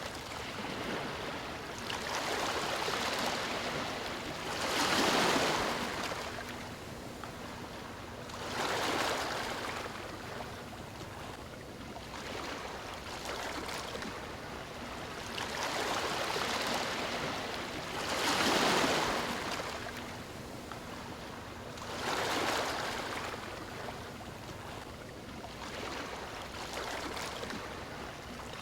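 Gentle ocean waves lapping on a shore, each wash swelling and fading every three to four seconds.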